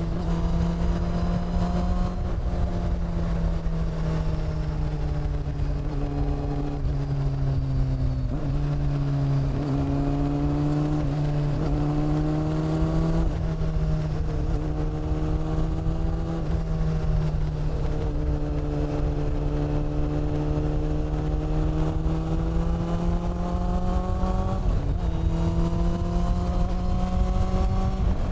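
Honda CB400 Super Four's inline-four engine and exhaust under way, the pitch rising and falling smoothly with the throttle, with several sudden drops where the rider changes gear.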